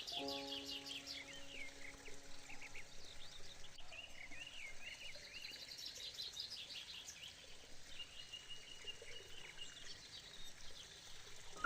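Birds chirping and singing, many short calls and trills overlapping, over a faint background hiss. A soft held musical chord fades out in the first few seconds.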